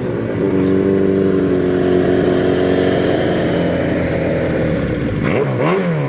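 Motorcycle with a loud aftermarket exhaust that still has some baffle in it, held at raised revs for about four seconds, settling back, then blipped sharply twice near the end.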